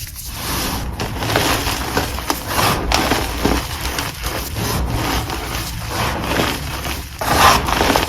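Dyed chalk being crushed and crumbled by hand: a continuous dry crunching full of small crackles, loudest about seven seconds in.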